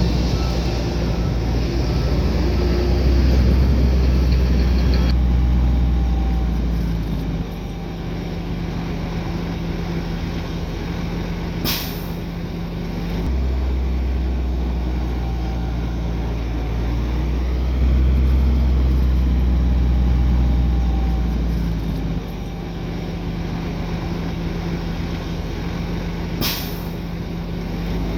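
Heavy diesel engines of earthmoving machinery running. The engine note gets louder for several seconds and then eases, twice over. Two brief sharp noises come about fifteen seconds apart.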